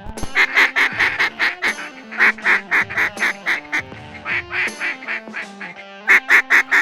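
Duck quacking in fast, loud runs of short calls, about four or five a second, in several bursts with short pauses between.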